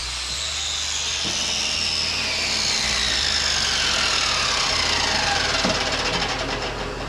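Angle grinder grinding the broken edges of a steel snowplow A-frame, its whine falling steadily in pitch over several seconds while the grinding noise grows louder.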